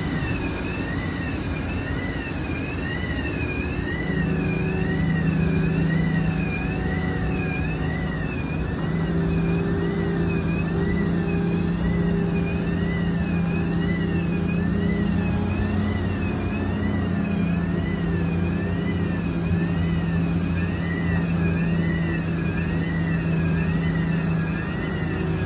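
A steady low engine hum, joined by a continuous high warbling tone that rises and falls about one and a half times a second.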